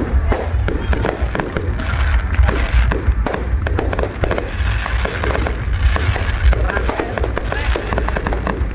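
Fireworks display going off without pause: deep bursts under dense crackling.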